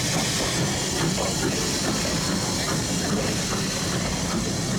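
Ivatt Class 2 2-6-2T steam tank locomotive with a steady hiss of steam over the running noise of the train.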